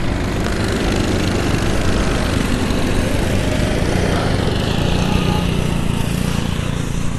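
Small lawnmower-type engines of a pack of youth race cars running hard together, their buzz overlapping, with one engine climbing in pitch midway.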